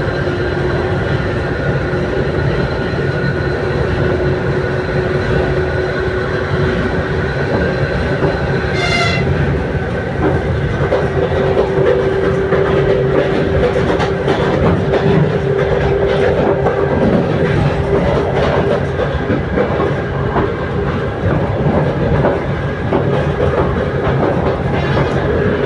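Passenger train running along the track, with a steady rumble and clickety-clack of wheels over rail joints. A short, high tone sounds about nine seconds in.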